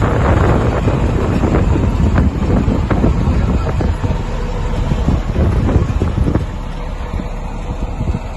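1989 GMC 7000 TopKick grain truck running, a loud low rumble with rattles and knocks, with wind buffeting the microphone. It eases somewhat about six and a half seconds in.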